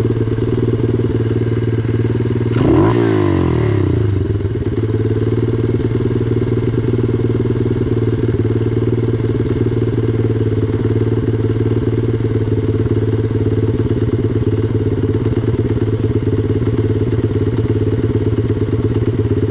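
125cc pit bike engine idling steadily, with one quick blip of the throttle about three seconds in that rises and falls back.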